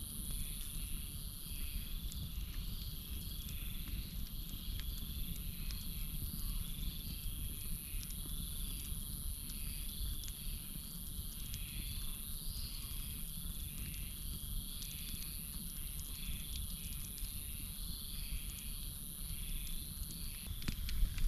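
Campfire burning with a low rush and sparse small crackles, under a steady high-pitched cricket trill and a repeated chirping call about once a second from crickets or frogs.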